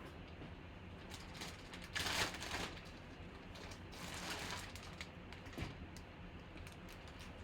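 Packaging rustling and crinkling while the jersey is unpacked and handled, louder in two stretches about two seconds in and about four seconds in, with a few light clicks.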